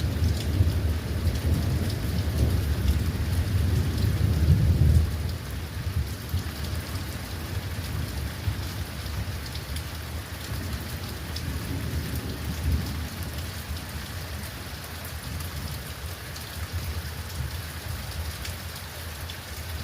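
Thunder rumbling over steady rain, loudest in the first five seconds and then dying away into the hiss of rain.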